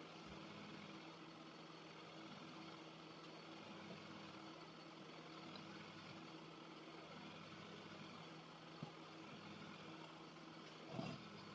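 Faint steady low hum under a light hiss, with a soft tick about nine seconds in and a brief knock near eleven seconds.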